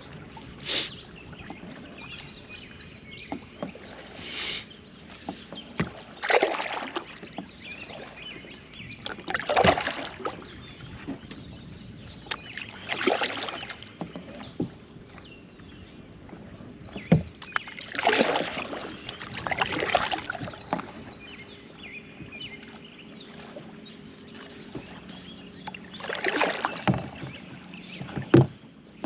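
Kayak paddle strokes: a double-bladed paddle dipping and pulling through the river water, each stroke a short splashing swish, coming every few seconds at an uneven pace with quieter water between strokes.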